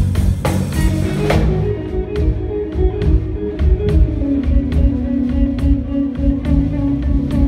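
A live band jam: guitar playing sustained melodic notes over bass and drums, with a steady drum beat.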